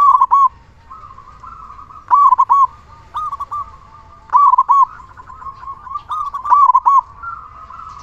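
Male zebra dove (perkutut) singing: four loud phrases of three or four arched coos, one about every two seconds, with softer cooing between phrases.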